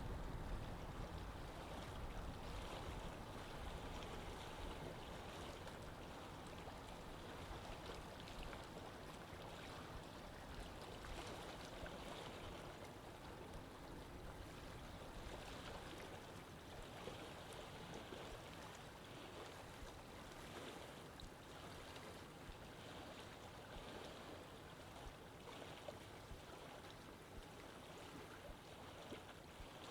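Faint, steady flow of water in a canal, with a low rumble that fades over the first few seconds.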